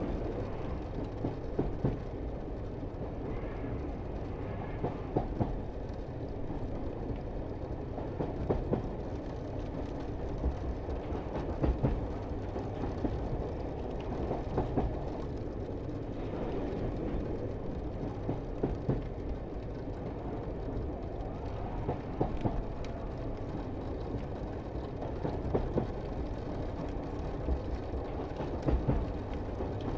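Cog railway train running on its track: a steady low rumble with irregular clatter and knocks.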